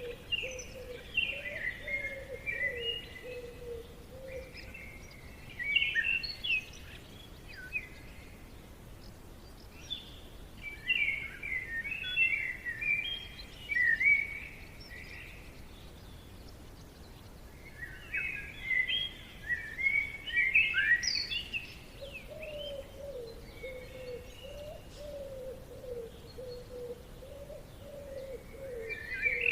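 Forest birds singing: clusters of quick, high chirping phrases every few seconds, with pauses between. A lower, wavering call runs underneath for the first few seconds and again through the last part.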